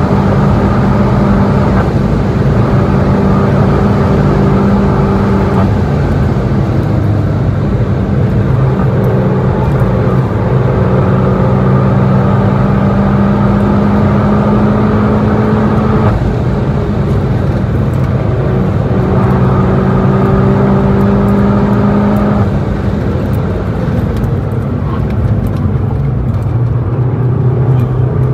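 Volkswagen Golf GTI Clubsport S turbocharged four-cylinder engine heard from inside the cabin at high speed on track. The note holds steady, breaks off and picks up again a few times, then drops quieter as the car slows hard from over 200 km/h for a tight corner near the end.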